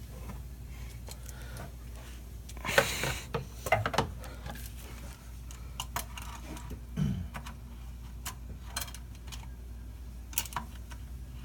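Scattered metallic clicks and clanks of an oil filter wrench and ratchet being fitted onto an oil filter, with a louder clatter about three seconds in.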